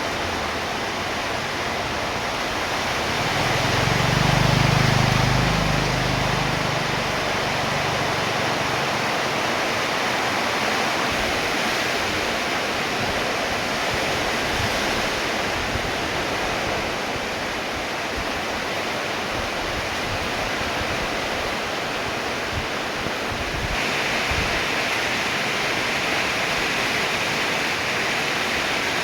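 Heavy rain falling steadily in a dense hiss. A low rumble swells and fades about four to six seconds in.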